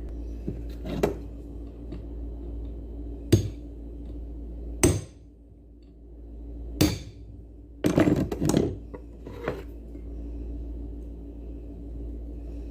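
Sharp knocks of a tool striking a Sanyo blender's housing, working its cover loose: single blows a second or two apart, then a quick cluster of several blows about two-thirds through.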